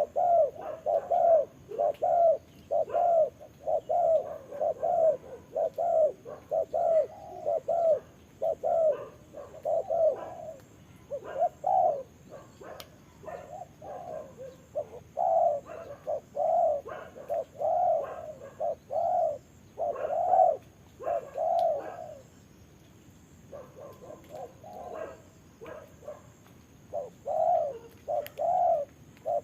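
Spotted doves cooing over and over: a long string of short, low coos about two a second, with a short pause late on.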